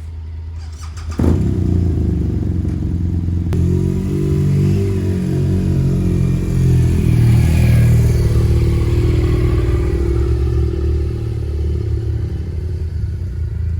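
Motorcycle engine pulling away and accelerating. Its pitch climbs and drops several times as it shifts up through the gears, then it settles into steady running.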